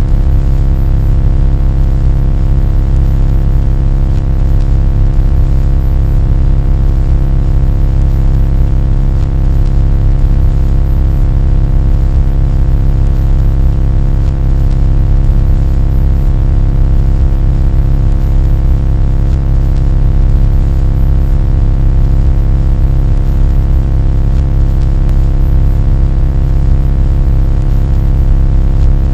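Loud, steady low rumbling drone with many steady tones stacked above it, holding without change.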